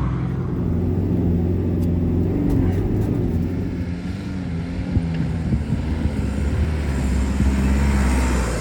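A vehicle engine running with a steady low hum, its pitch wavering slightly a few seconds in.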